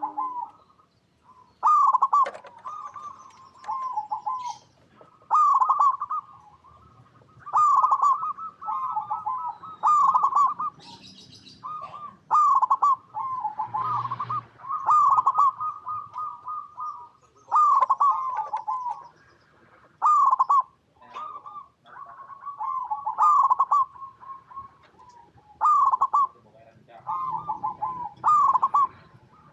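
Zebra dove (perkutut) singing: phrases of rapid, staccato cooing notes about every two seconds, some running on for a few seconds.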